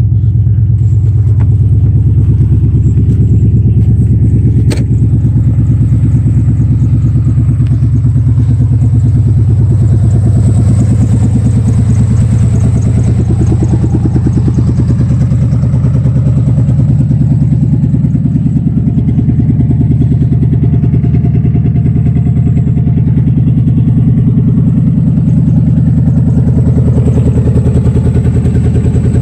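1991 GMC K1500's V8 engine idling steadily just after a cold start, still on its old spark plugs of 15 years or more. A single sharp click a few seconds in.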